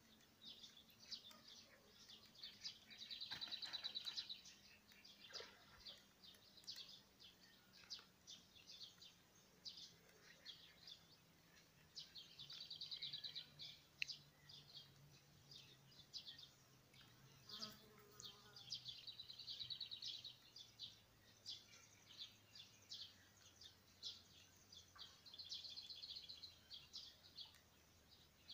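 Songbirds chirping high and thin, with a short buzzy trill that comes back about every six or seven seconds.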